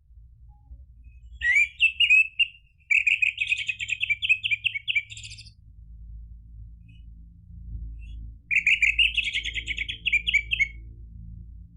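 Orange-headed thrush singing: three bursts of rapid, varied, chattering song phrases, the last starting about eight and a half seconds in, over a faint low hum.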